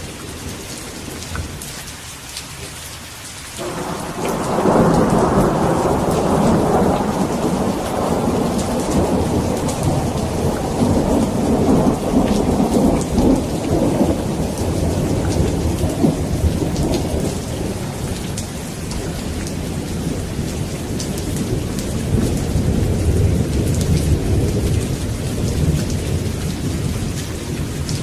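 Steady rain with a long roll of thunder that breaks in suddenly about four seconds in and keeps rumbling, easing and swelling, to the end.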